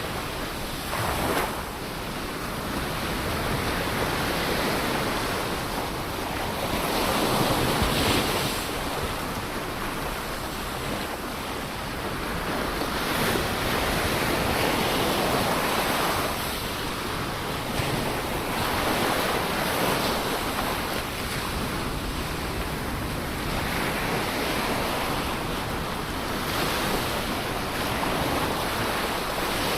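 Ocean waves breaking and washing on the shore, a continuous rush of surf that swells and eases every few seconds, with some wind on the microphone.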